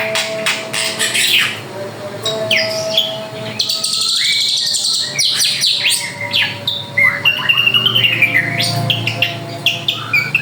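Drongo singing without a break: a rapid, varied string of whistles, quick up- and down-sweeping notes and sharp clicking calls.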